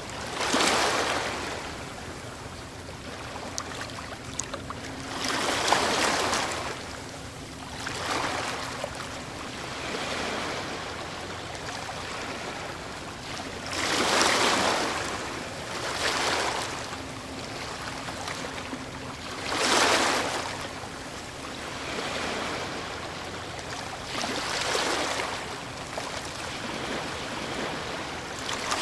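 Ocean waves breaking on a shore, one swell of rushing surf every few seconds with a softer wash of water between them.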